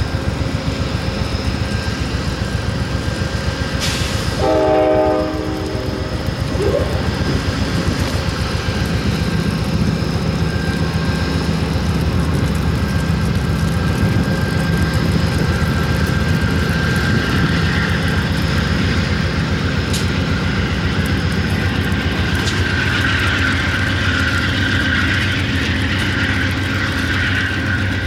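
Amtrak passenger train led by a GE P42DC Genesis diesel locomotive rolling through a grade crossing: a short horn blast about five seconds in, then the diesel engine and wheels running steadily as the train passes.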